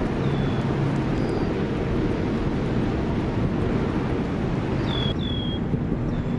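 Steady wind buffeting the microphone outdoors, with a few short high chirps near the start and again about five seconds in.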